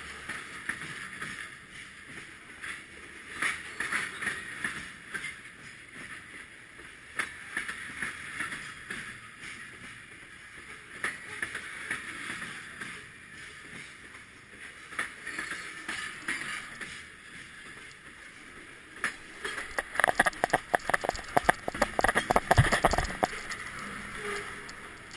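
A freight train rolling slowly past at close range, its steel wheels clicking and rattling over the rails. About twenty seconds in comes a burst of loud metallic clanks and rattles as a rider grabs the end frame of a moving car and climbs aboard.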